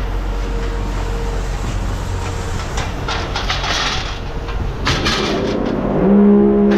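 Steady machine rumble with scrap metal clattering now and then. A steady pitched drone comes in about six seconds in.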